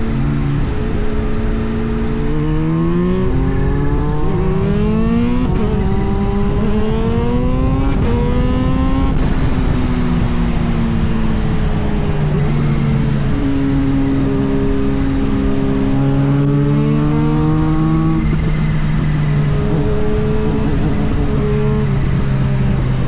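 Kawasaki Z H2's supercharged 1-litre engine running as the bike is ridden. Its pitch rises twice over the first nine seconds or so, then holds fairly steady with small shifts, over a steady rush of wind noise.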